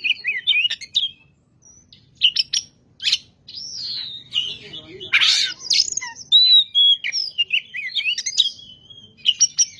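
Oriental magpie-robin (kacer) singing in full voice: a fast run of clear whistled phrases that glide up and down, mixed with short harsh notes, with a brief pause about two seconds in.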